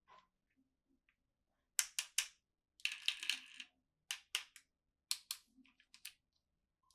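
Plastic toys and packaging being handled: groups of sharp clicks, with a short rustling burst about three seconds in.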